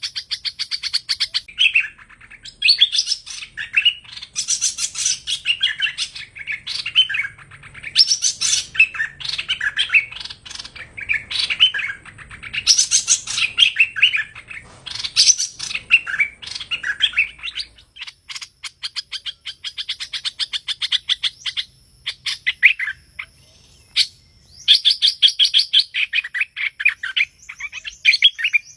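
Streak-eared bulbuls (hoành hoạch) singing: quick, chattering runs of bright chirping notes, phrase after phrase, with a couple of short lulls in the second half.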